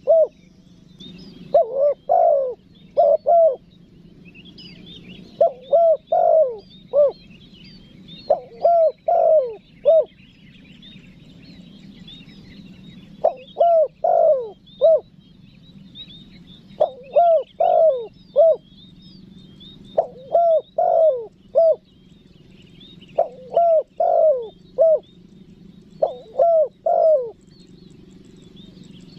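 Spotted dove cooing: a phrase of three to five short low coos repeated about every three seconds, the calling song used to lure wild doves. Faint high twittering of small birds runs underneath.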